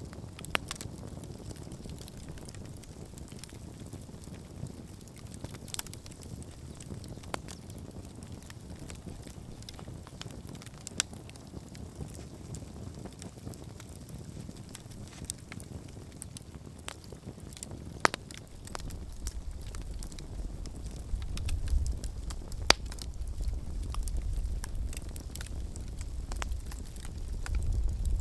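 Wood campfire crackling, with scattered sharp pops, a few of them loud, over a low steady hiss and rumble. In the last third a low wind rumble on the microphone grows stronger.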